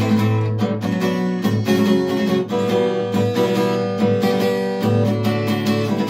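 Acoustic guitar strummed with a thick plectrum, playing a rapid, even run of chords as an instrumental passage.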